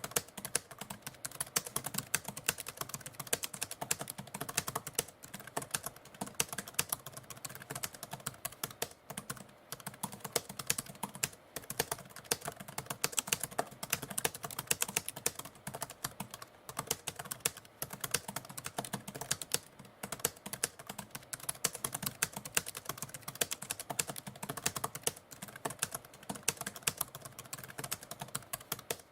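Typewriter keys being struck in a fast, irregular stream of clicks, with brief pauses now and then.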